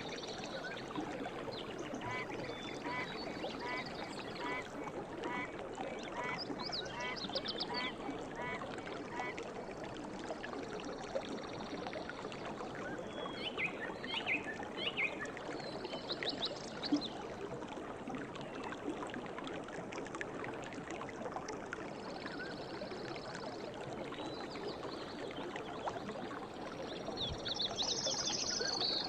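River water running and babbling steadily, with birds calling over it: a series of short repeated notes about twice a second in the first third, then scattered higher chirps, with a bright burst of chirping near the end.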